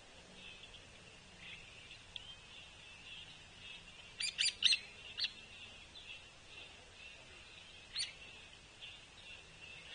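Short, sharp bird calls: a quick run of about four a little after four seconds in, another about a second later and a single one near the end, most likely the calls of hairy woodpeckers at a suet feeder. Beneath them is a faint steady chorus of distant birds.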